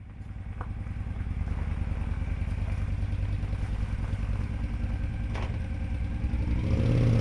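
Motorcycle engine running with a fast, even low pulse, growing steadily louder, with a sharp click about half a second in and another around five seconds in.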